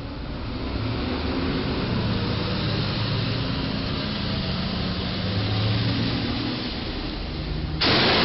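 A car driving, with steady engine and road noise. Near the end a sudden, much louder noise cuts in and holds.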